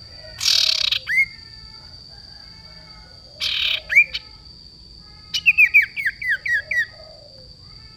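Sirtu songbird calling: a harsh rasping note followed by a short rising whistle, given twice, then a quick run of about seven sharp down-slurred chips near the end. A steady high-pitched whine runs underneath, with faint chirping from other birds.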